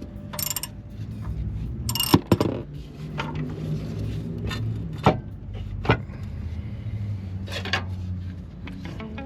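Irregular metallic clanks and knocks of hand tools and parts being worked, the loudest pair about two seconds in, over a low steady hum.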